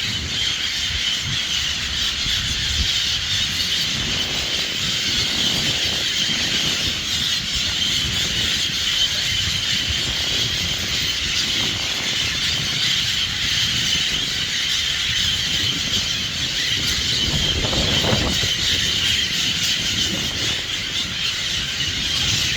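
A large flock of birds calling all at once in a dense, continuous, high-pitched chorus of squeals and chatter, with no break.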